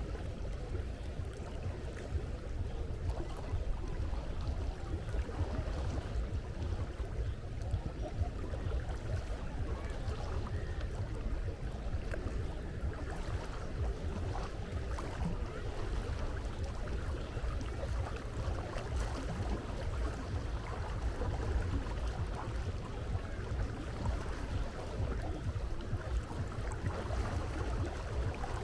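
Steady low rumble under a continuous wash of sea water.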